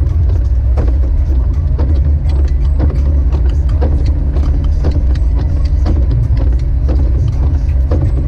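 Jeep Wrangler YJ driving, heard from inside: a loud steady low rumble of engine and road noise, with a short sharp tick about once a second.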